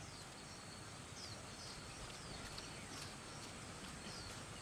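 Faint outdoor countryside ambience: a steady low hiss with a small bird giving short, falling chirps about twice a second.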